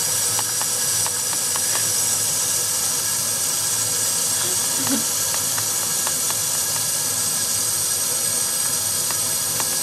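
Kitchen tap running in a steady hiss, with a few faint light clicks over it.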